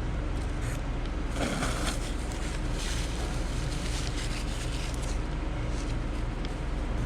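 Rustling and scraping of a takeout bowl and fork, in two short bursts between one and three seconds in, over a steady low hum.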